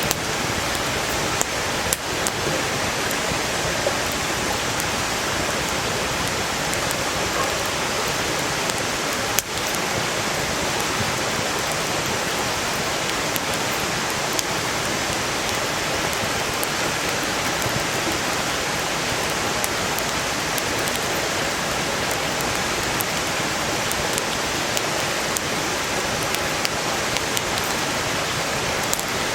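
Steady rushing of a valley stream with a wood campfire crackling over it: sharp little pops and snaps of burning firewood scattered throughout, one louder pop about nine seconds in.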